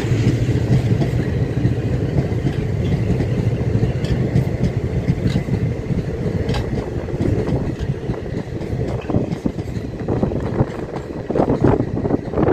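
ICF passenger coaches of a superfast express rolling past on the track: a steady rumble with the rhythmic clickety-clack of wheels over rail joints, which grows sharper over the last few seconds.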